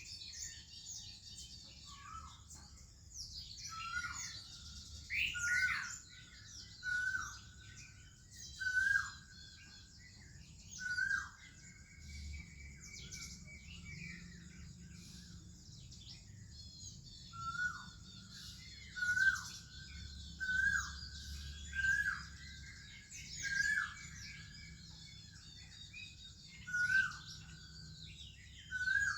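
Morning bird chorus of Oriental magpie-robins and other birds: dense high chirping and warbling, with one bird repeating a short whistled note about once a second in two long runs, the second starting about halfway through.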